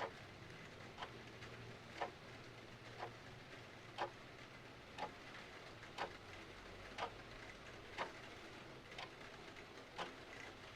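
Clock ticking once a second, the tick and the tock alternating louder and softer, over a faint steady hiss of rain.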